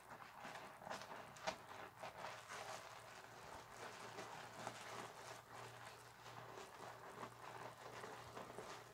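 Wet loofah scrubbing against a bar of soap: a continuous run of small squelching, crackling rubs, with a faint steady low hum underneath.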